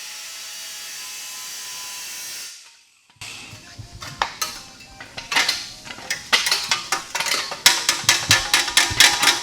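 A steady hiss fades out about two and a half seconds in. After a brief silence comes a run of sharp metallic clicks and clinks, sparse at first, then quicker and louder toward the end.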